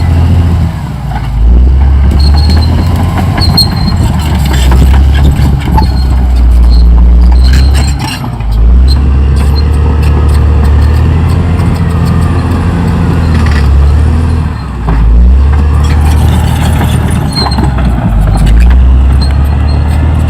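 Caterpillar D6R XL bulldozer's diesel engine running loud under load, its pitch and level dipping briefly about a second in, around eight seconds in and near fifteen seconds, with scattered clanks.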